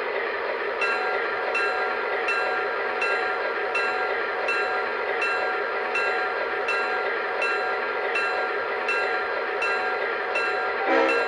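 MTH Proto-Sound 3 sound system of a model ALCO RS-11 diesel locomotive playing its diesel engine running sound, with a bell ringing about every three-quarters of a second.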